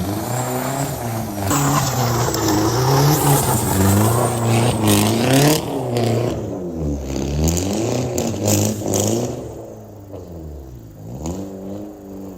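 Big-turbo Audi B5 A4 engine heard through its custom 3-inch turbo-back exhaust with a Flow Monster muffler, the revs climbing and dropping several times. It goes quieter for the last few seconds.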